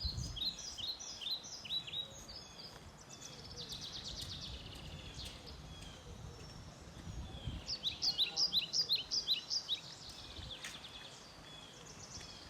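Small songbirds singing: runs of quick, high chirps near the start and again from about seven and a half seconds in, with a trill between them, over a faint steady background.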